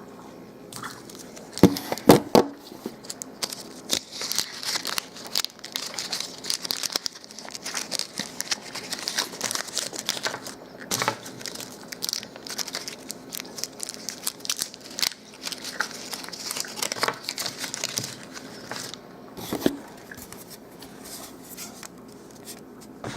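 Crinkling and rustling of individually wrapped candy wrappers as pieces are handled and opened, with a few sharp clicks about two seconds in.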